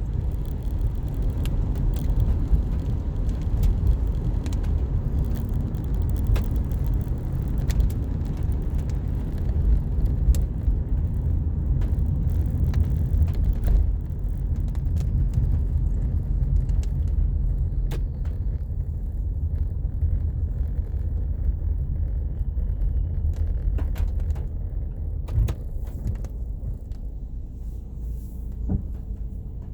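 Car driving, heard from inside: a steady low rumble of road and engine noise with scattered light clicks and taps, easing off a little near the end.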